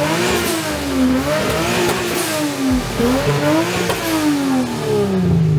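Car engine revving up and down in slow sweeps, about three rises and falls.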